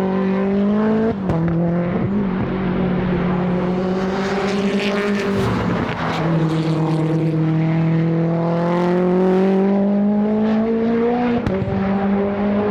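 A modified time attack race car's engine under hard acceleration, its pitch climbing slowly through each gear and dropping sharply at upshifts, about a second in, about halfway, and near the end.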